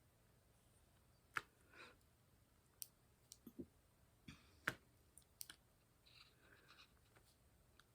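Faint, scattered clicks and taps of diamond painting, a drill pen setting small drills onto the canvas, with two sharper clicks a little over a second and nearly five seconds in.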